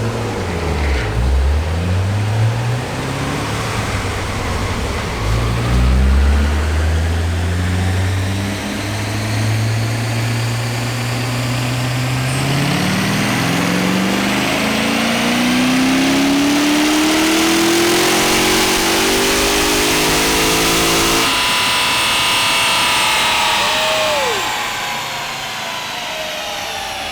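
Stock C6 Corvette Z06's 7.0-litre LS7 V8 making a wide-open-throttle pull on a chassis dyno. The engine note steps up at first, then climbs steadily in pitch for about fifteen seconds. About twenty-one seconds in it cuts off sharply as the throttle closes, and the pitch falls away as the car coasts down.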